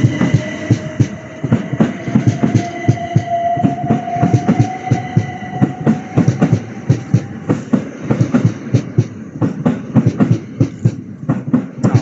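Train moving through: wheels clattering over rail joints and points, with a motor whine rising slowly in pitch that fades out about seven seconds in.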